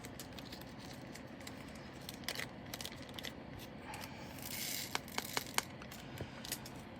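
Small plastic bags and cardstock being handled: crinkling, with scattered light clicks and taps and a short tearing sound about four and a half seconds in.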